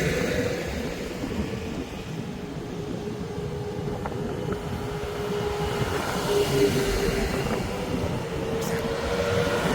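Tractor running and driving past, a low engine rumble with a steady whine over it, louder as it comes close near the start and again near the end.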